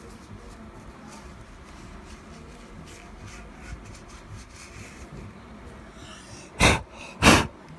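A person coughing twice near the end, two short loud coughs about half a second apart.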